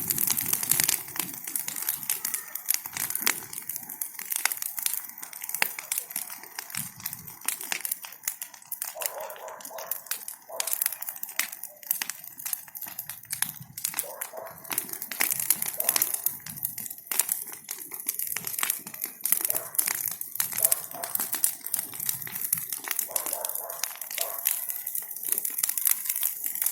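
Bonfire of burning branches crackling and snapping without a break, a dense run of sharp pops.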